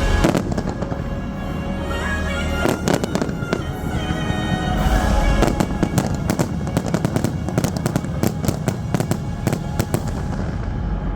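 Fireworks finale: shells banging and crackling in rapid succession over loud show music, the bursts densest in the second half before thinning out near the end.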